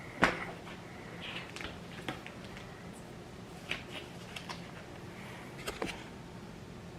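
A spoon tapping and scraping in a Blizzard ice cream cup while it is being stirred. A sharp tap about a quarter second in is the loudest, followed by scattered lighter taps.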